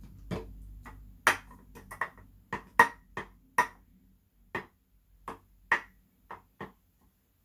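A run of about fifteen short, sharp knocks and clicks at irregular spacing: containers being picked up and set down on a hard surface as they are shuffled around. The knocks are loudest and closest together in the first few seconds and thin out towards the end.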